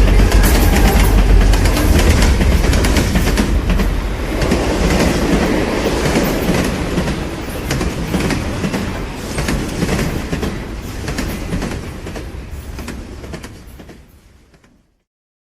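A train running past with a rapid clatter of wheels over the rails, slowly fading away and dying out shortly before the end.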